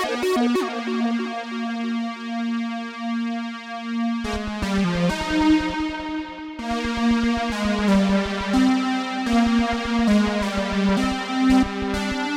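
Behringer Poly D analog synthesizer playing: one held note with bright overtones for the first four seconds, then a fast stuttering run of short notes that shift in pitch.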